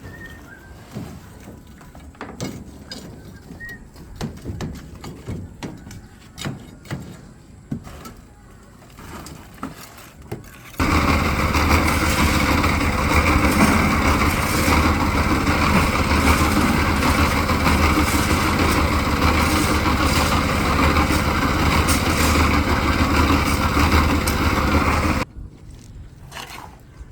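Scattered knocks, then a small engine-driven machine starts up loud and runs steadily with an even low hum for about fourteen seconds before cutting off suddenly.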